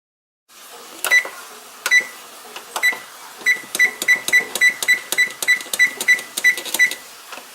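Electronic oven control panel beeping as its buttons are pressed to set more cooking time: a few single beeps about a second apart, then a quick run of about a dozen beeps at roughly three a second.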